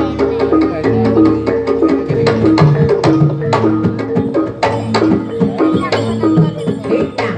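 Live Javanese jaranan gamelan music: a repeating melody of struck pitched notes over brisk drum strokes, in a steady rhythm.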